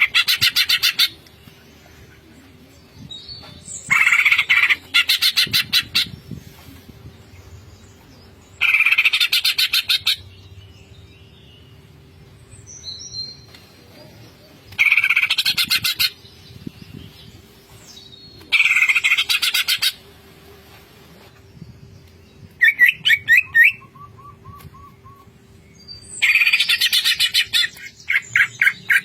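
Cucak ijo (green leafbird) singing in the ngentrok style: loud bursts of rapid repeated notes, each a second or two long, coming about every four seconds. Between two bursts, past the middle, comes a faster trill with a few lower notes.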